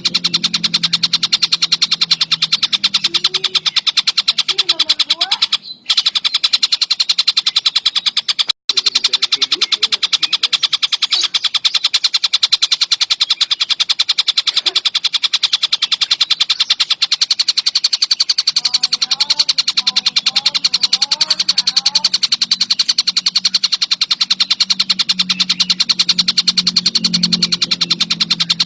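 Tengkek buto bird singing a continuous, very fast, even chattering trill, high-pitched, cutting out for a split second twice in the first third.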